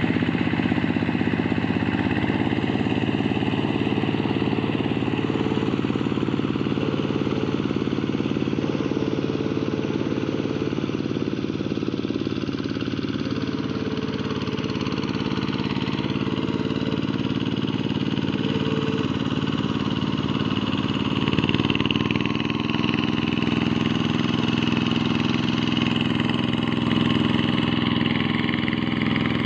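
Quick G1000 walk-behind hand tractor's single-cylinder diesel engine running steadily, its note shifting slightly about two-thirds of the way through.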